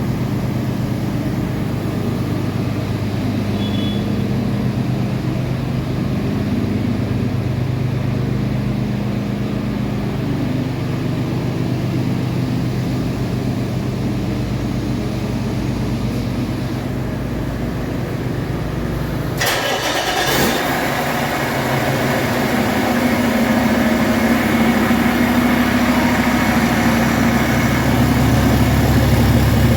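2018 Cummins ISX12 inline-six diesel engine running steadily on a test run, a good engine that runs excellently. About two-thirds of the way through the sound changes suddenly, becoming brighter and a little louder with a higher note.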